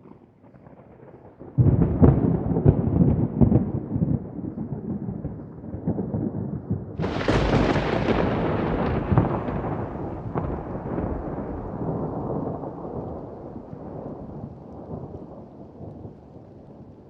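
Thunder: a crackling rumble breaks in suddenly about a second and a half in, a sharper crack comes about seven seconds in, and the rumble slowly dies away.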